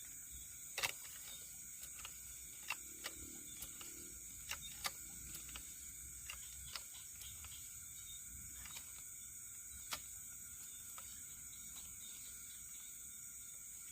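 Night insects such as crickets chirring steadily in high-pitched bands, with scattered sharp clicks and snaps, the loudest about a second in.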